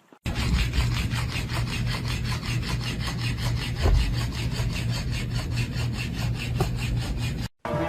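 Rhythmic rasping, like something being scraped or sawed back and forth, about four or five strokes a second, cutting off suddenly near the end.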